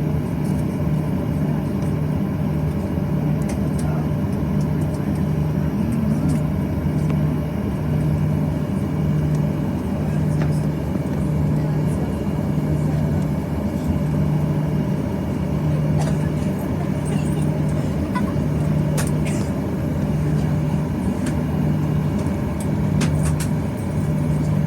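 Steady cabin drone inside a Boeing 737-800 on the ground, with a low hum that throbs about once a second and a few faint ticks.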